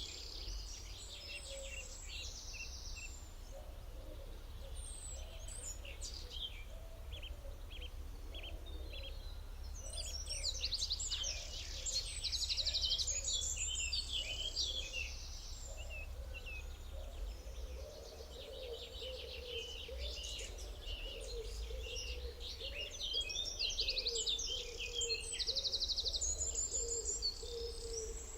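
Several wild birds singing, with clusters of fast trills and short high chirps coming and going throughout. A lower, wavering call joins under them in the second half, over a steady low background rumble.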